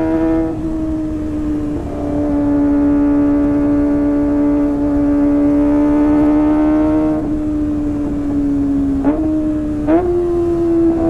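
Kawasaki ZX-25R's 250 cc inline-four running at high revs through an aftermarket Sportisi SRX exhaust, a steady high-pitched howl that sags slowly. Near the end come a couple of quick gear changes, each with a short break and a jump in pitch, and then the revs climb again.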